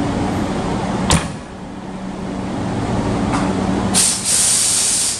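Hankyu 8300-series electric train standing at the platform, its equipment giving a steady hum. There is one sharp clack about a second in, and a loud hiss of released compressed air for the last second or so.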